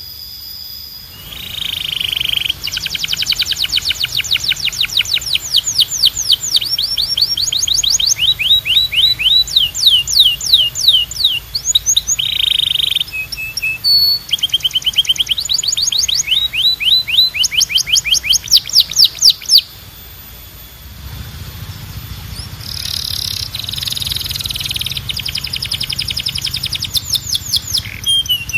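Domestic canary singing a long, loud song of rapid trills: runs of quick, repeated sweeping notes, several to the second, that switch to a new phrase every second or two. A low steady hum sits under the song in the last part.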